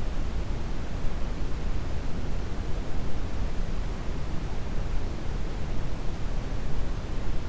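Steady brown noise: an even, deep rushing hiss, heaviest in the bass and unchanging.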